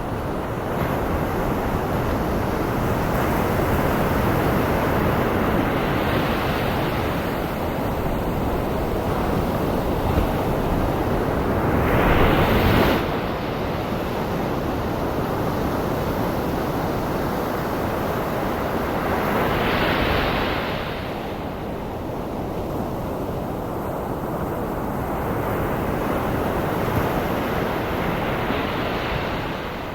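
Ocean surf on a Maui shore blended with a steady white-noise hiss, for tinnitus masking. Waves rise and break in slow swells, one every seven or eight seconds, about four in all, the loudest a little under halfway through.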